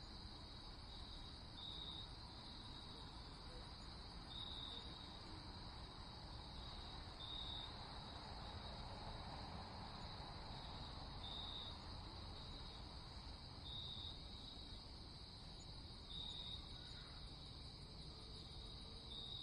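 Crickets chirping: a faint, steady high-pitched trill, with a brighter chirp repeating about every three seconds, over a low background hum.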